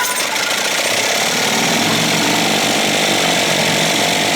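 1956 Evinrude 7.5 hp outboard being spun over by a power tool for a spark test: a steady mechanical whir that starts abruptly and holds an even speed, while the ignition is checked for spark on both cylinders.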